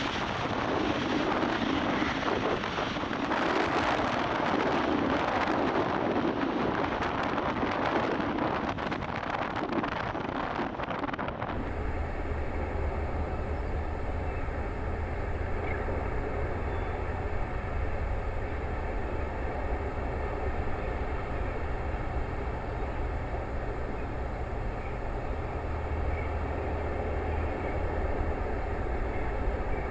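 Steady rushing roar of water from the Starship launch pad's top-deck deluge system. About eleven seconds in it cuts off abruptly, replaced by a steady low hum with faint steady tones above it.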